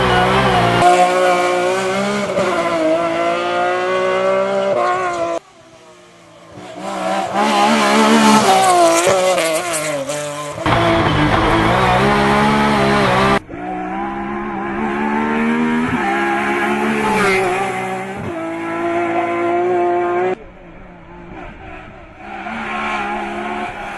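BMW M3 race car engine revving hard, its pitch climbing and dropping again and again with the gear changes. The sound cuts away sharply a few times, once for about a second and once for several seconds, before the engine comes back.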